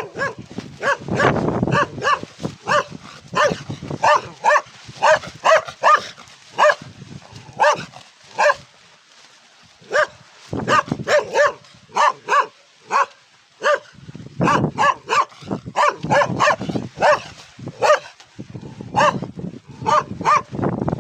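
A dog barking aggressively in fast runs of barks, about two or three a second, with two short breaks.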